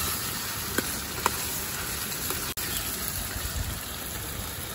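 Chicken sizzling in a kadhai over a wood fire, a steady frying hiss with two short sharp clicks about a second in.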